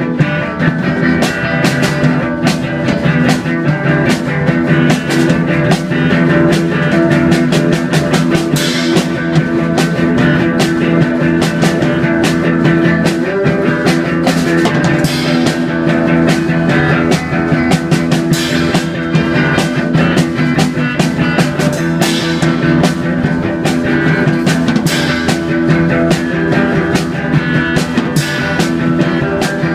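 Loud rock music with drums and guitar, playing continuously with a steady run of drum hits.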